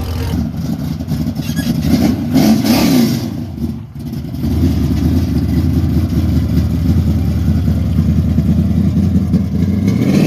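Car engine idling, revved up and back down once about two to three seconds in, then idling steadily.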